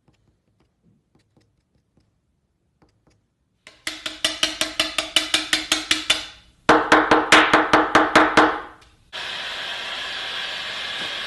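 A rapid run of sharp knocks, about seven a second, in two bursts with a short break between, each knock with a slight ring; then a steady hiss starts near the end.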